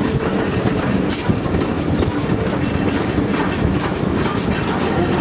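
Train carriage running along the track, heard from the carriage window: a steady rumble of wheels on rail with frequent sharp clicks and clacks.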